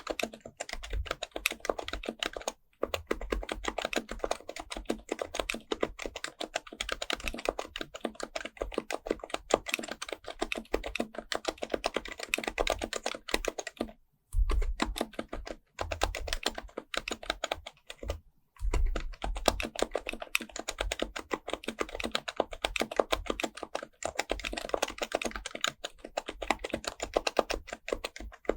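Fast, continuous typing on an HHKB Pro Type-S keyboard's silenced Topre switches, a dense run of keystrokes that stops briefly three times.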